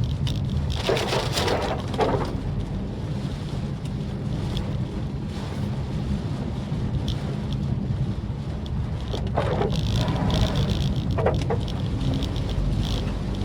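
Maruti Suzuki Swift Dzire driving in rain: a steady low road-and-engine rumble under rain and tyre hiss. A short swishing sound comes twice, about a second in and again near ten seconds.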